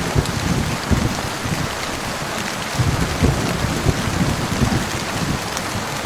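Rain falling steadily, with low thunder rumbling in two spells: at the start and again from about three seconds in.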